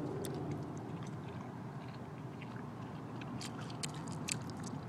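Someone chewing pizza close to the microphone: faint, scattered wet mouth clicks, thicker about three and a half seconds in.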